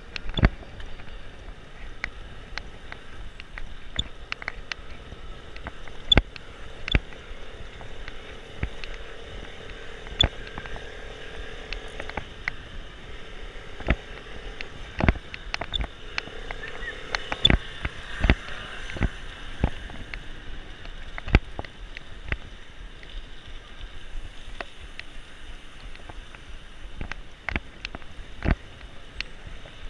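Riding noise of a bicycle heard from a camera on the rider: a steady rush of wind and tyres on asphalt, broken by irregular sharp knocks and rattles as the bike and camera jolt over the road. A faint engine hum runs through the middle, with a motorcycle riding just ahead.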